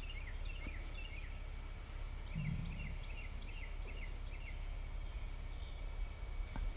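Faint bird chirping: runs of short, falling chirps, several a second, over a steady low hum, with a soft low knock of handling about two and a half seconds in.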